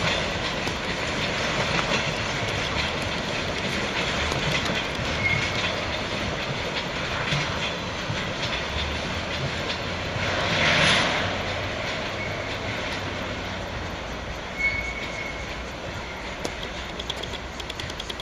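Freight train rolling past, its wagons clattering steadily over the rail joints with a few brief high wheel squeals. The sound swells in a louder rush about eleven seconds in, then slowly fades.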